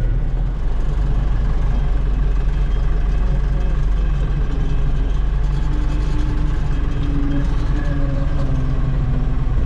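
Farm tractor's 95-horsepower diesel engine running steadily with a deep, constant hum, working while round bales are moved.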